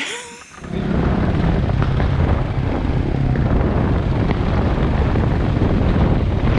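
Dual-sport motorcycle being ridden, its engine running under heavy wind rush on the camera microphone, coming in suddenly about a second in.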